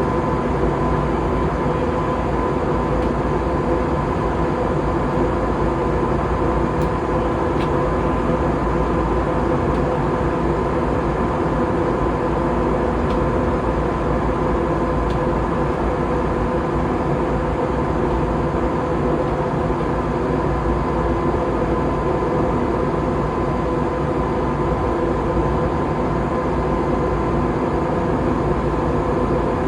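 Steady drone of jet engines and airflow heard inside an airliner cabin in flight, with a constant high tone running through it.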